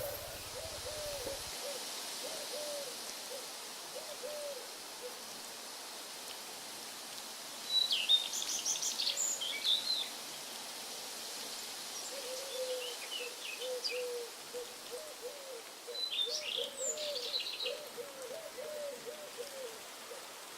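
An owl hooting in runs of short, evenly spaced notes, with bursts of high bird chirps about eight seconds in and again near the end, over a steady background hiss.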